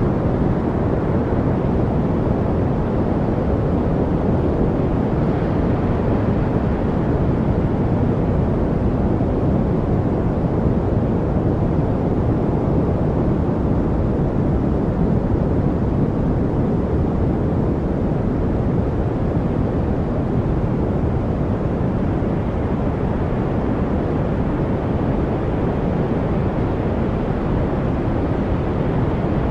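Steady noise-masking track: an even, unbroken rushing noise, deep and rumbling, with little high hiss and no birds, water or other events in it.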